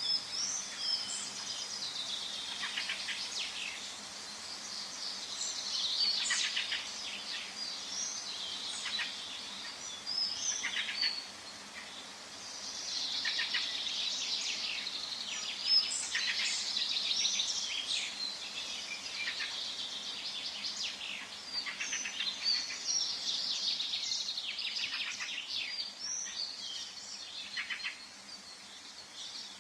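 Several songbirds singing and chirping together in a forest dawn-chorus-like ambience, with overlapping quick trills and high chirps almost without pause over a faint steady background hiss.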